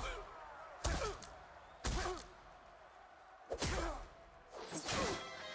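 Cartoon fight sound effects: a series of about five heavy punch impacts roughly a second apart, each followed by a short falling grunt.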